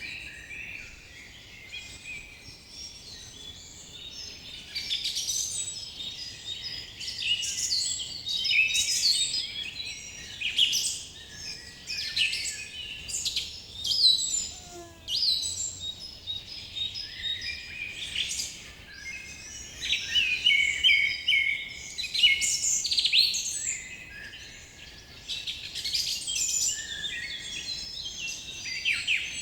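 A chorus of many songbirds singing and calling at once, with overlapping high chirps, trills and whistles that rise and fall in loudness every few seconds.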